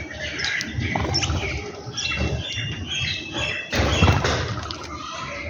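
Birds calling in many short chirps, with a sharp thump about four seconds in.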